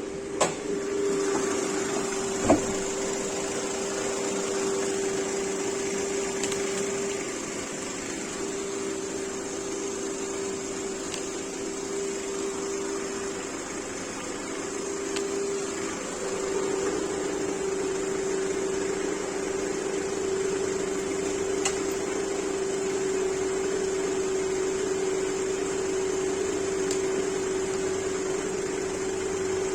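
Toyota Camry engine idling with a steady hum holding one mid-pitched tone and a high hiss, with two sharp clicks in the first few seconds.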